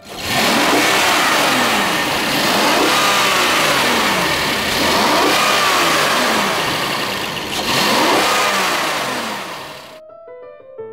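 Rolls-Royce Wraith's 6.6-litre V12 engine free-revved with the bonnet open, its pitch climbing and falling back about four times over the idle. It dies away near the end.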